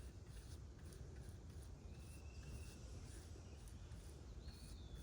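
Faint outdoor ambience: a low steady rumble with a few thin, high, slightly falling whistled calls from a distant bird.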